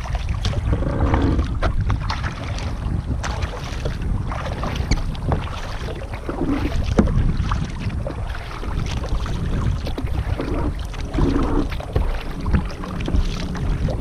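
Kayak paddling: paddle blades dipping and splashing in the water over and over, with a steady rumble of wind buffeting the microphone.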